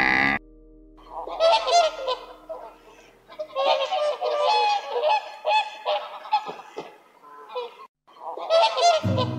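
Several birds honking in quick, overlapping goose-like calls that come in clusters with short gaps.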